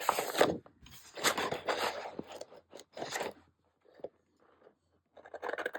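Scissors snipping through sparkly glitter paper in a run of short, rough cuts, a pause with one light click, then cutting again near the end.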